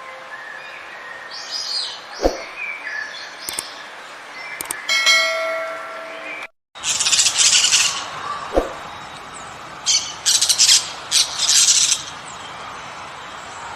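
Birds chirping and calling, with a short ringing tone about five seconds in. After a brief break, harsher noisy calls come in short repeated bursts.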